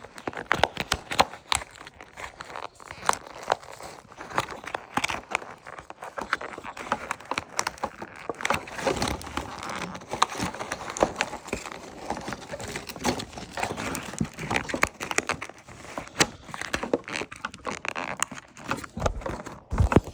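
Plastic toy packaging crinkling and rustling with a steady run of small sharp clicks as it is handled and picked apart to free the toy's power coins.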